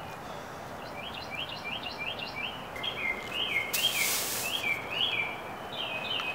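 Birds chirping in a quick series of short notes that fall in pitch, over a steady background hiss. About four seconds in, one brief scratchy brush of a straw broom on concrete.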